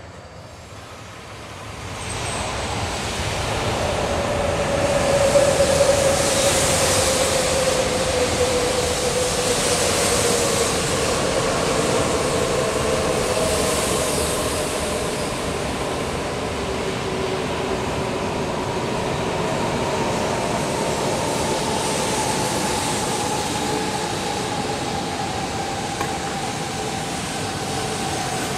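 E4 series Max double-deck Shinkansen pulling in and gliding past, its running noise building about two seconds in. Over the noise comes a whine that falls slowly in pitch as the train slows, and a high hiss that swells and fades a few times.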